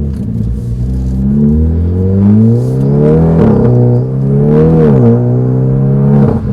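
Hyundai i30N's 2.0-litre turbocharged four-cylinder running through a full turbo-back 3-inch sports exhaust with the valves open, pulling hard with the note rising, a brief dip about three and a half seconds in like a dual-clutch upshift, rising again, then dropping sharply around five seconds and settling to a steady drone. The tone is deep and thuddy rather than cracky.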